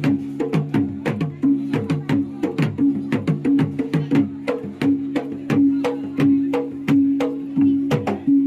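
Traditional silat accompaniment music: rapid, sharp hand-drum strokes, about three to four a second, over a sustained low tone.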